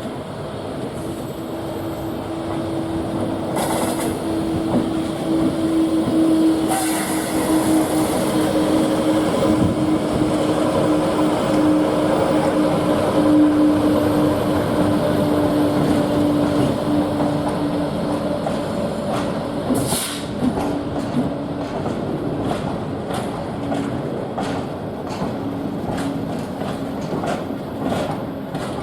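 Diesel-hauled freight train passing: the locomotive's engine note swells, peaks and slowly falls in pitch, then the wagon wheels clatter over the rail joints in a run of regular clicks.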